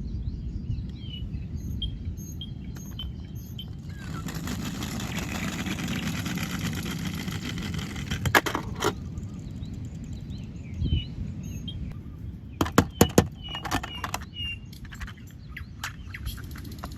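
Outdoor ambience: small birds chirping repeatedly over a low steady rumble, with a vehicle passing by in the middle. A few sharp clicks or knocks come in a quick cluster about two-thirds of the way through.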